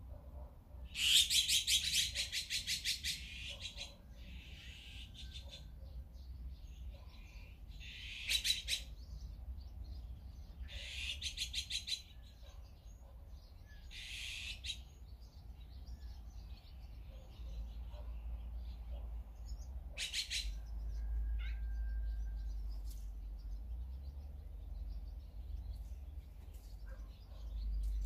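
Wild birds calling in about five short bursts of rapid chattering notes. The first burst, about a second in, is the longest and loudest.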